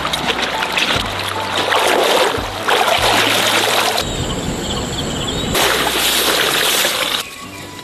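Water splashing and running, with background music.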